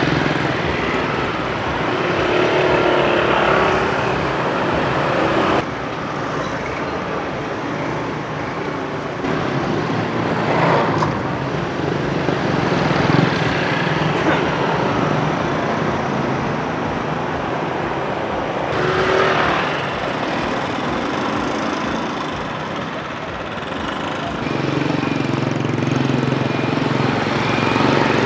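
Street traffic noise: a steady hum of motorbikes and cars on the road, swelling as vehicles pass close by about a third of the way in, again past the middle, and near the end. The sound changes abruptly twice early on, at spliced clips.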